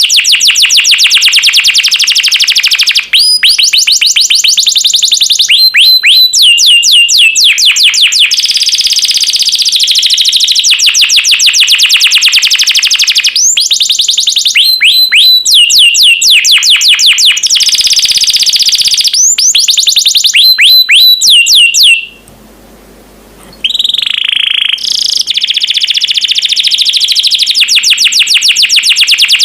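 Domestic canary singing a long, loud song of rapid trills and fast repeated chirps, breaking off for about a second and a half near the end before carrying on.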